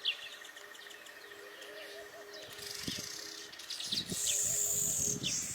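Weaver birds chirping in short, sharp calls, with a loud, high, steady buzz lasting about a second and a half near the end.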